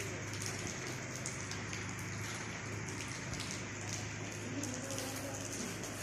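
Rain falling steadily, with many small drop ticks over a constant hiss and a low steady hum underneath.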